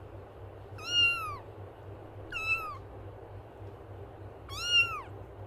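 A kitten meowing three times, each a short high-pitched meow that rises and then falls in pitch.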